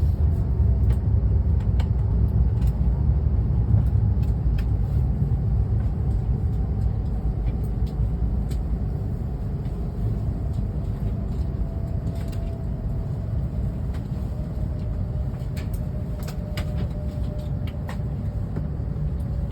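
Joetsu Shinkansen train running, heard from inside the passenger cabin: a steady low rumble that slowly grows quieter as the train nears Tokyo Station, with faint scattered clicks and a faint humming tone.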